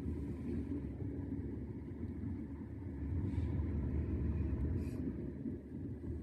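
E131-series electric train moving, a steady low rumble heard from the cab.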